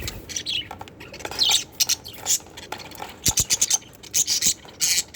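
Budgerigars chattering in quick, high chirps and warbles, with a few sharp clicks about three seconds in.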